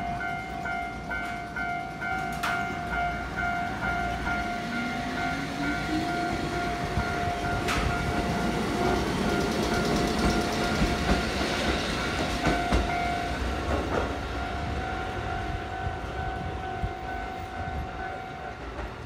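Kotoden 1200-series electric train (ex-Keikyu 700) pulling away and accelerating, its motors rising in pitch, then its wheels rumbling and clicking over the rail joints as it passes. A level-crossing alarm rings in an even, pulsing beat throughout and stops shortly before the end.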